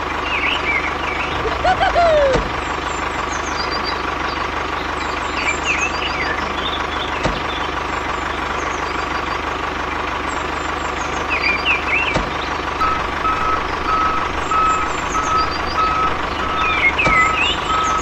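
Steady vehicle engine drone with short high chirps recurring every few seconds; about two-thirds of the way in, a reversing beeper starts, beeping about one and a half times a second.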